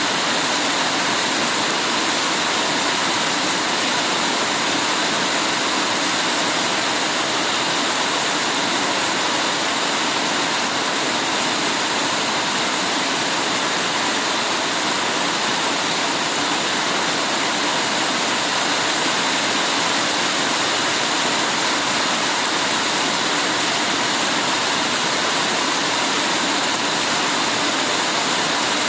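Heavy rain falling steadily, a dense even hiss with no breaks or separate drops standing out.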